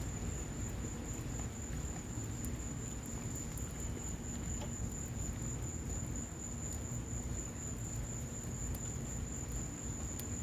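Wood fire burning in a patio fireplace with rain falling: a steady rushing rumble with scattered sharp crackles, and a steady high-pitched whine throughout.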